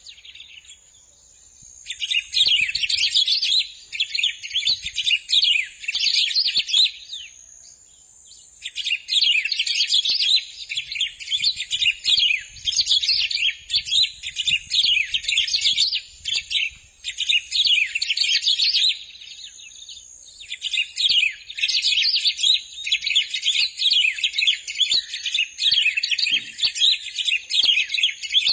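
Bico-de-pimenta (black-throated grosbeak) singing: long runs of fast, high twittering song, broken by short pauses about two, nine and twenty-one seconds in, with a thin high whistle held in some of the gaps.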